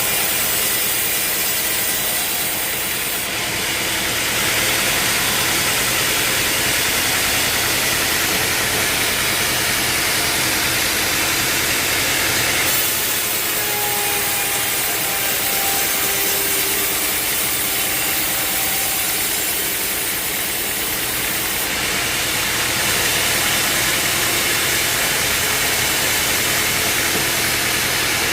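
Sawmill machinery running steadily: a motor's hum under the continuous noise of a saw cutting through a log.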